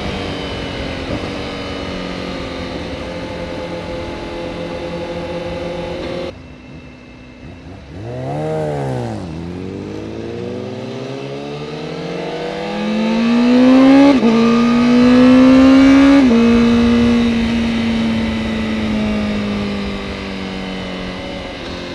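Honda CBR Fireblade's inline-four engine on the move: steady cruising, a brief dip about six seconds in, a quick rev up and down, then accelerating with rising pitch through two upshifts before settling back to a steady cruise.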